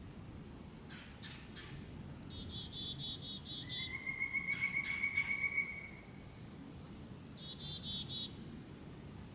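Black-capped chickadees calling at a backyard feeder: two chick-a-dee calls, each a high opening note followed by a quick run of buzzy 'dee' notes, the first longer than the second. Between them another small bird gives a steady trill lasting about two seconds, with a few light clicks.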